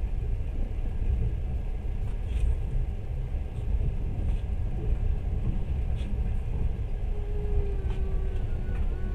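Passenger train running, heard from inside the carriage: a steady low rumble of wheels on the track with scattered faint clicks. A steady whine joins in about seven seconds in.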